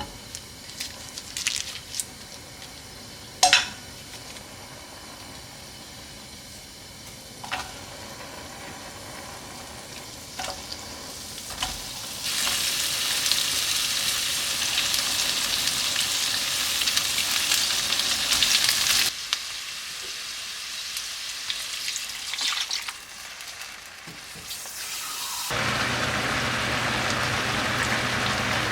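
Food sizzling in a hot pan for several seconds, with a few utensil clicks and taps before and after. Near the end a small electric motor starts and runs steadily.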